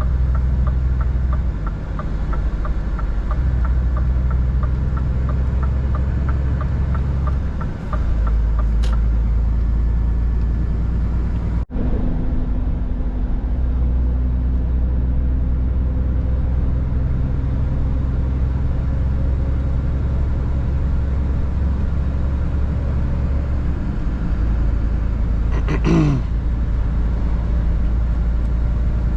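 Scania R 450 truck's diesel engine running under way, a steady low drone heard in the cab that shifts level several times as the engine speed changes. A light regular ticking runs through the first nine seconds or so, and a short falling sweep comes near the end.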